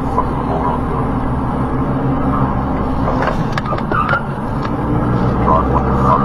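Steady drone of a car in motion, heard from inside the cabin: engine and road noise holding an even low hum, with a few short clicks around the middle.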